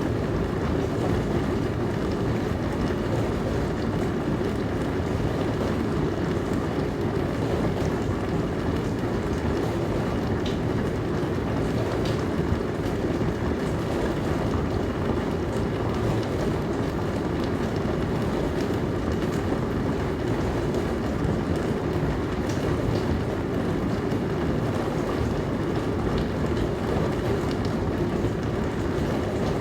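Dishwasher running with a steady, even rumble and a few faint ticks.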